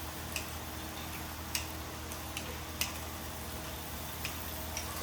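Scattered light clicks and taps, about six in five seconds, over a steady low room hum.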